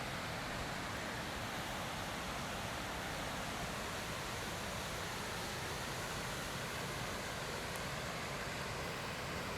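Steady, unbroken rush of flowing water from a forest stream.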